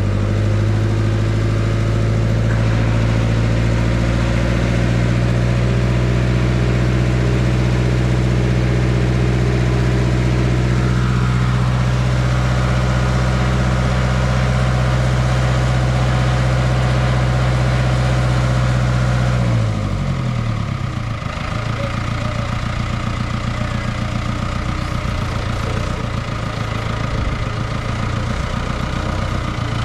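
A large engine runs steadily at a constant note. About two-thirds of the way through, it drops to a lower, pulsing idle.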